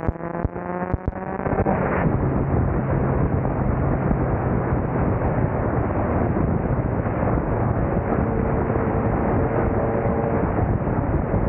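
Mitsubishi Evolution IX's turbocharged 4G63 four-cylinder pulling hard, its note rising for under two seconds with a few sharp cracks. Then a heavy roar of wind over the microphone buries it, with only a low engine drone beneath.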